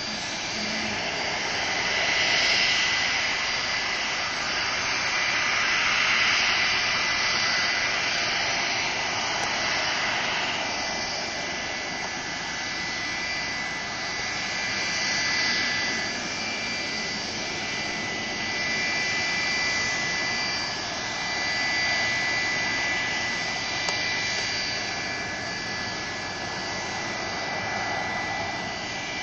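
Boeing 737-300's CFM56 turbofan jet engines running, a steady rush of jet noise with several high steady whining tones over it, the level swelling and easing gently.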